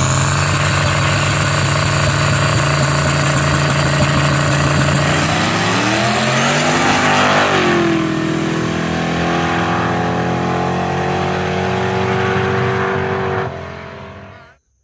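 Two street-race cars, one a turbocharged LS V8 Malibu wagon, running at the line, then launching hard about six seconds in, their engine note climbing as they accelerate away. The sound then settles into a steady, slowly falling note as they pull off into the distance, and it cuts off near the end.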